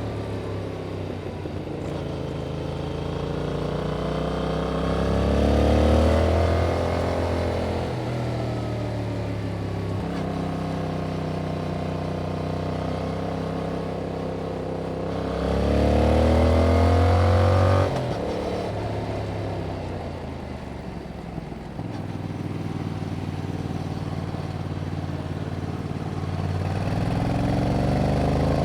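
2021 Yamaha MT-07's 689 cc parallel-twin engine through its stock exhaust, riding: the revs climb twice under throttle, the second climb cutting off sharply as the throttle closes. The engine then winds down before pulling up again near the end.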